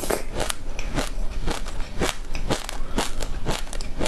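Mouth crunching a spoonful of mixed seeds while chewing, crisp crunches at a steady pace of about two a second.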